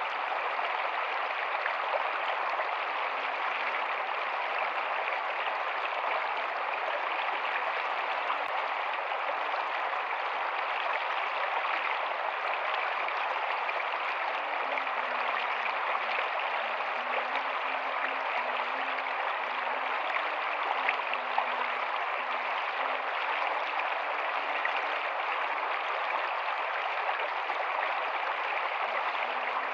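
A rocky stream running steadily, its water making an even rushing noise with no separate splashes.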